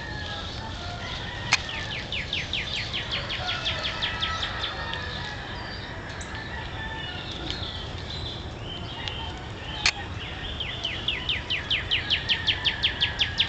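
A bird calling in two long runs of quick, falling notes, about six a second, the second run louder. Two sharp clicks stand out, one early and one near the middle.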